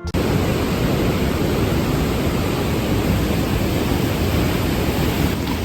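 Steady roar of a waterfall heard up close, an even rush of falling water with no break.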